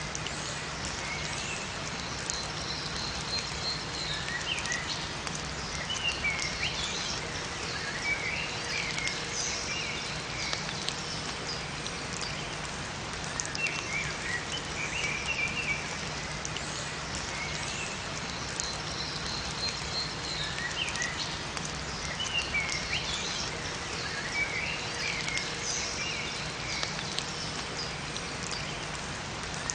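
Steady rain falling, with small songbirds chirping in short calls every few seconds.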